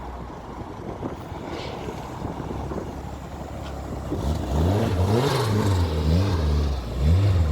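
Car engine being revved: a low rumble until about four seconds in, then several throttle blips, the pitch rising and falling about once a second.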